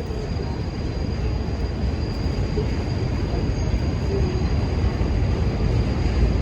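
Subway train rumbling through an elevated station, a steady low rumble that slowly grows louder, with a faint wheel squeal dying away at the start.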